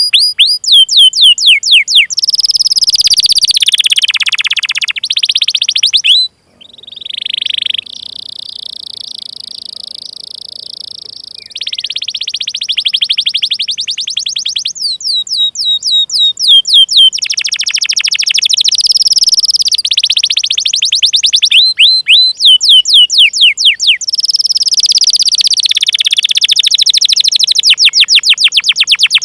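Domestic canary singing: rapid runs of downward-sweeping 'cuit cuit' chirps alternate with long rolling trills. The song breaks off briefly about six seconds in, and a softer, steady roll follows until about halfway through.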